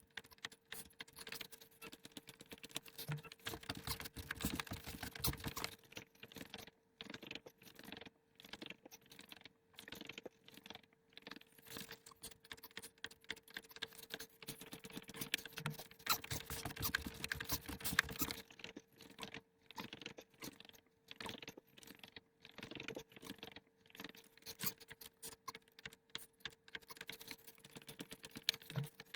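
Light, irregular taps, steps and thumps of a person working out on a floor, over a steady faint hum.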